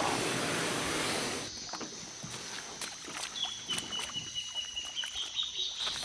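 River and rainforest sounds: a rush of water noise for the first second and a half, then quieter with scattered small knocks and a long, steady high-pitched call from about halfway in.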